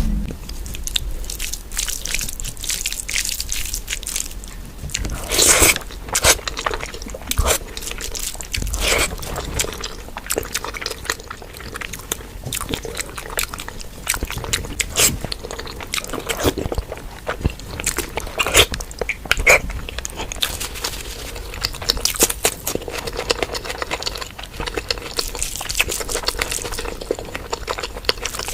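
Close-miked eating of mutton fat curry and rice: continuous chewing and biting with wet mouth smacks and clicks, a few louder bites scattered through.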